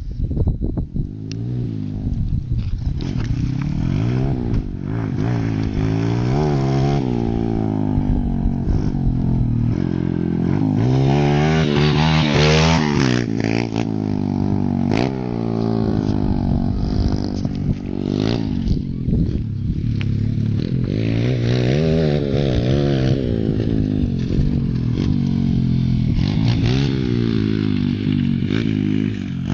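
Pit bike engine revving hard and dropping back again and again as it is ridden, its pitch rising and falling every few seconds, with scattered clattering and scraping noises.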